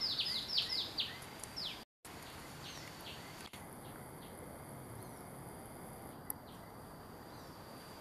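A small bird calling a rapid series of descending whistled notes, about four a second, cut off abruptly about two seconds in. Afterwards faint outdoor background with a thin steady high tone.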